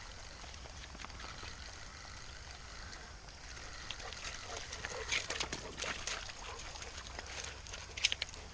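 Creek water splashing and sloshing in irregular bursts, with a quick cluster of sharp clicks near the end.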